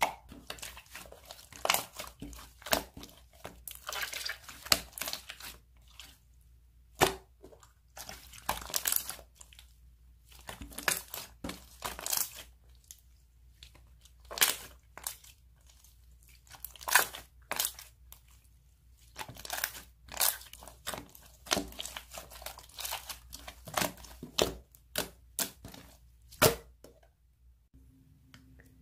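Slime being squeezed and pressed by hand, making irregular crackling and clicking pops.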